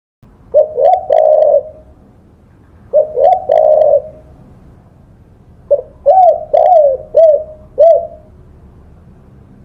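Spotted dove cooing in three phrases: the first two of three quick notes, the last drawn out, and a third of five separate notes.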